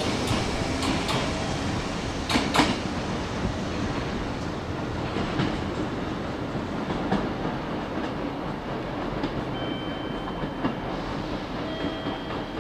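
Hanshin Railway electric train running on the tracks, its wheels clacking over rail joints, with a sharp pair of clacks about two and a half seconds in. The rumble slowly grows quieter and duller as the train moves away.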